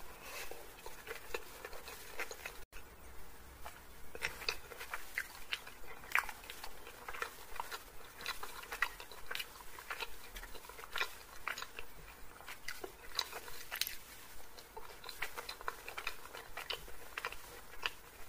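Close-miked chewing and mouth sounds of someone eating chow mein noodles and chilli chicken: irregular wet smacks and small clicks, one after another.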